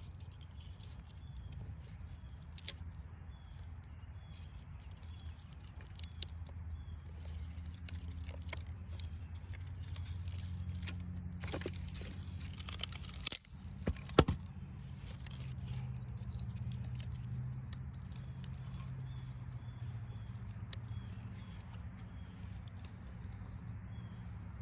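Wood fire in a fire pit crackling, with scattered small ticks and a few sharp pops about halfway through, over a steady low rumble.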